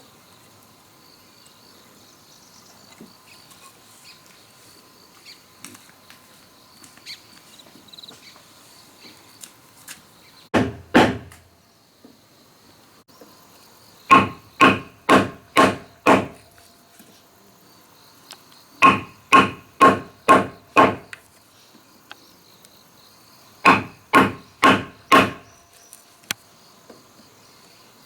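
Hand tool striking wood in runs of four to six even blows, about three a second, with pauses between the runs.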